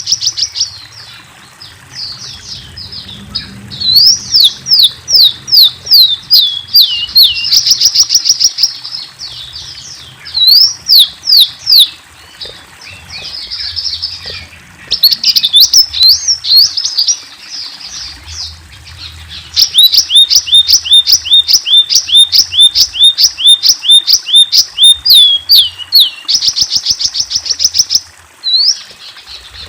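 A sunbird (the bird Indonesian keepers call 'kolibri') singing loudly: rapid runs of sharp, high down-slurred notes and buzzy trills, in bursts a few seconds long separated by short pauses.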